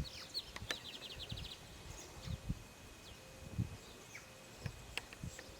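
Outdoor ambience. A bird gives a rapid run of high chirps for about the first second and a half, then scattered faint calls follow over a faint steady insect-like hum.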